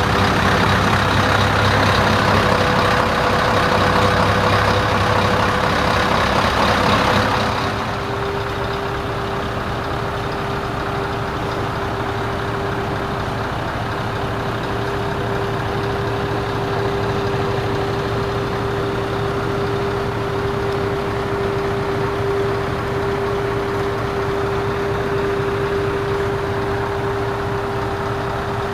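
Scania 580's 16-litre V8 diesel engine idling steadily with a constant low drone. For the first seven seconds or so a louder broad rushing noise runs over it, then cuts off suddenly, leaving the even idle.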